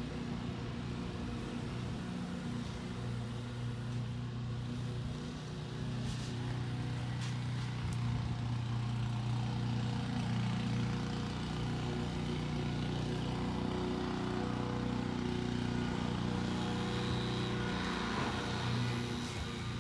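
Peterbilt 320 garbage truck's diesel engine running steadily, a little louder through the middle.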